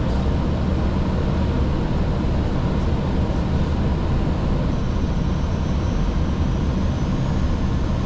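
Steady cockpit noise of an Airbus A320 on final approach: an even rush of airflow and engine sound, with a few faint steady tones above it.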